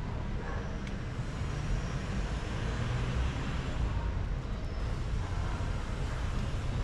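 Steady low rumble of street traffic, with a few faint ticks above it.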